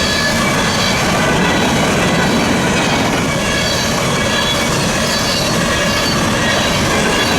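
Freight train rolling past, a steady heavy rumble and rattle of the cars with faint high wheel-squeal tones over it.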